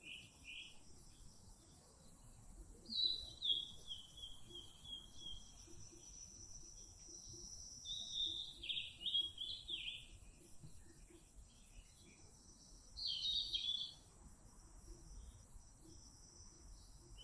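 Small bird chirping in four short bouts of quick, high notes, with pauses between, over faint outdoor background noise.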